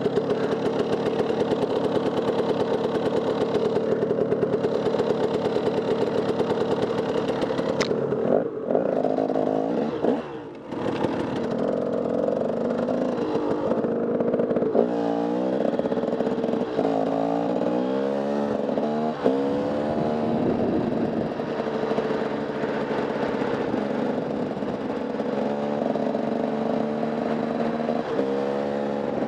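Off-road enduro motorcycle engine held at steady revs for several seconds, dropping off briefly, then revved up and down over and over as the throttle is worked through the trail.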